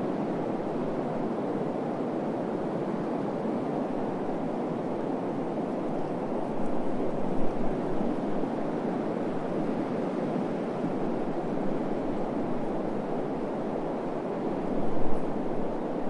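Steady desert wind blowing, with gusts buffeting the microphone about seven and fifteen seconds in.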